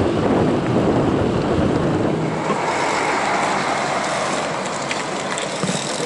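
Wind rumbling on the microphone, easing about two seconds in to a lighter hiss with a few faint clicks near the end.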